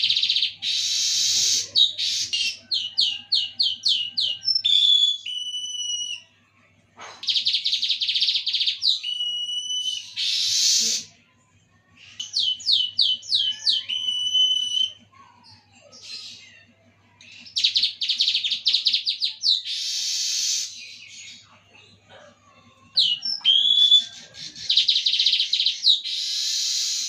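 A songbird singing in repeated loud phrases: dense buzzy trills alternate with runs of quick downward-slurred notes that end in a held whistle, with short pauses between phrases.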